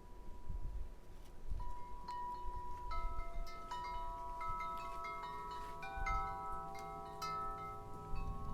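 Wind chimes ringing, set going by gusting wind: several tubes sound at different pitches, struck again and again with their tones hanging on, the chiming thickening about two seconds in. Under them runs a low, uneven rumble of wind on the microphone.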